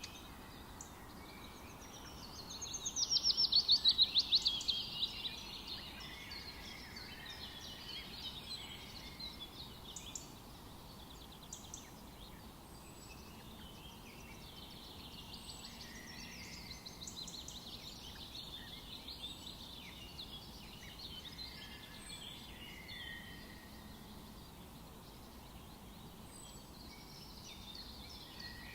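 Several songbirds singing in a forest chorus over a faint steady hiss. About three seconds in, one bird gives a loud, rapid trill that falls in pitch, and other songs and chirps come and go throughout.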